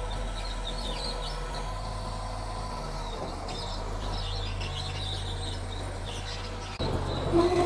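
Small Mitsubishi bulldozer's diesel engine running steadily at low speed, with small birds chirping. Near the end the engine gets suddenly louder.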